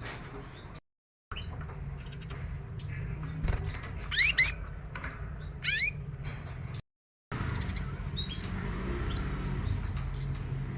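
Canaries chirping in short high calls, with two quick trills of rapid notes about four and six seconds in, over a steady low rumble. The sound cuts out briefly twice.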